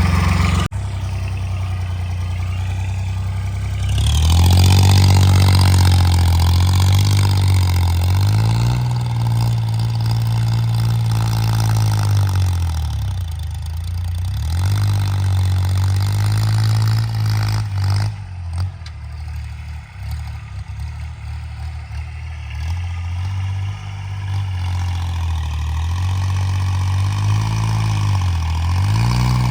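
Homemade tractor's engine running throughout, its revs rising about four seconds in and then sagging and picking up again several times.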